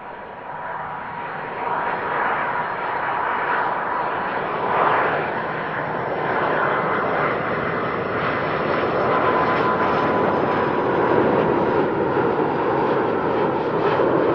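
Jet airliner's engines passing close, getting louder over the first couple of seconds and then holding a loud, steady rush with a thin whine running through it.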